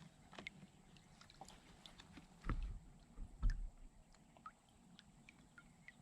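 Two low thumps on a kayak, about two and a half and three and a half seconds in, as gear or a paddle knocks against the hull. Faint small clicks and chirps sound in between.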